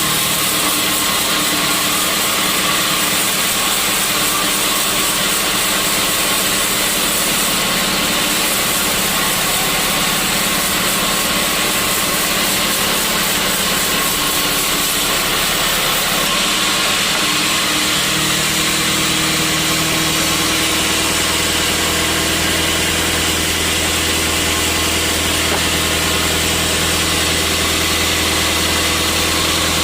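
Sawmill machinery running steadily with a loud, even noise. A deeper hum comes in about two-thirds of the way through.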